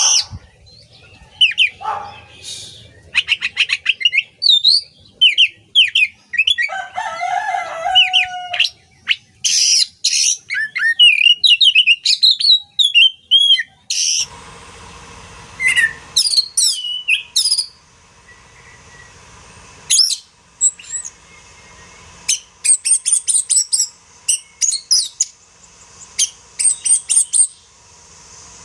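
Oriental magpie-robin (kacer) singing a loud, varied song of whistled notes, quick chirps and rising and falling glides, broken by short pauses. About halfway through, a steady background hiss comes in under the song.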